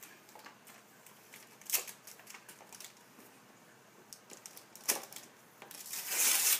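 Small clicks and rustles of a wrapped gift box being handled and opened, rising to a louder burst of paper crinkling and tearing near the end.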